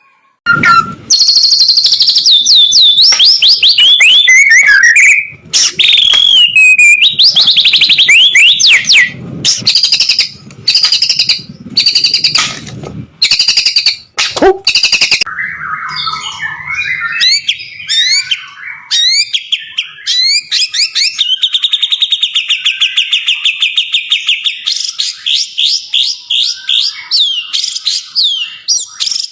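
White-rumped shama singing a loud, varied song of fast sweeping whistles. About halfway through it changes to quicker repeated chirps and a rapid trill.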